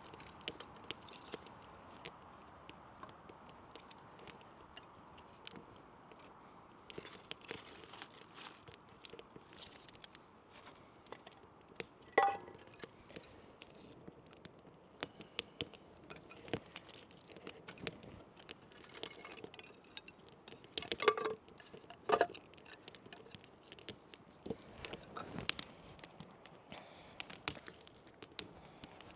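Wood fire crackling with scattered sharp ticks and pops, and a few louder metallic clinks: one about twelve seconds in and two close together about three quarters of the way through.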